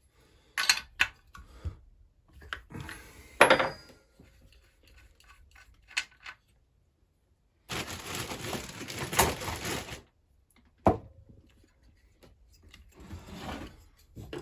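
Clicks and knocks of small chainsaw parts and hand tools being handled while a Husqvarna 346 XP chainsaw is taken apart, with a noisy stretch of about two seconds past the middle and a sharp knock shortly after it.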